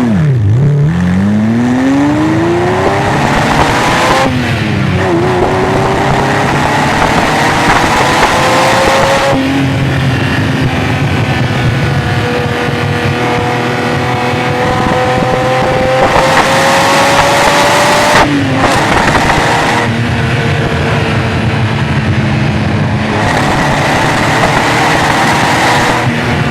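Ferrari Testarossa's flat-twelve engine breathing through a Larini exhaust, pulling up through the revs and dropping pitch sharply at each upshift, several times in a row, with steadier cruising stretches between the pulls.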